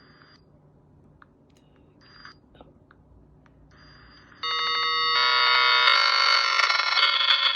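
A few faint, short electronic chirps, then about four and a half seconds in a loud, shrill electronic ringing starts suddenly: many steady pitches at once with a rapid fluttering pulse, like a ringtone or alarm.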